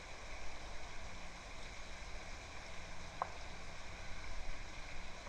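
Steady outdoor background hiss with a low rumble, and one short sharp tap or chip about three seconds in.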